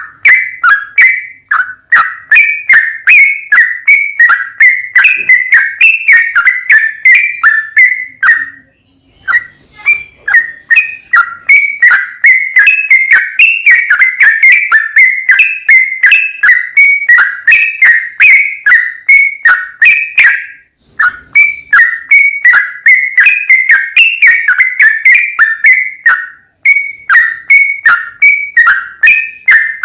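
Yellow-vented bulbul (trucukan) singing: a fast, unbroken run of loud whistled notes at much the same pitch, several a second. It pauses briefly about eight seconds in and again about twenty-one seconds in.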